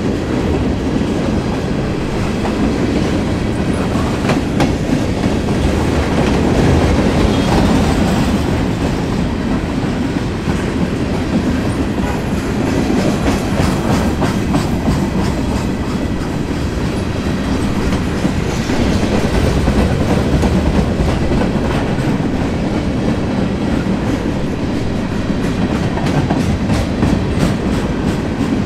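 Freight train's gondola cars rolling past: a steady rumble of steel wheels on the rails, with a repeated clickety-clack that is most plain near the end.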